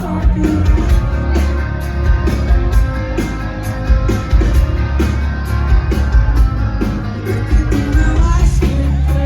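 Live rock band playing loudly: drums, heavy bass and guitar, with singing over the top.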